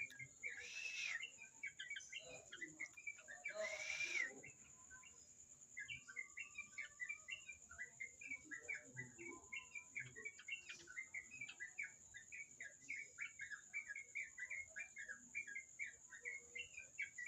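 Yellow-vented bulbul (trucukan) chirping: from about six seconds in, a rapid, continuous run of short chirps, several a second, over a steady high whine.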